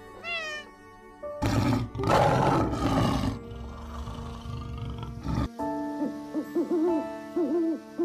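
A cat's short falling meow, then a lion's loud roar lasting about two seconds, then several low wavering hoots from an eagle owl near the end, all over soft background music.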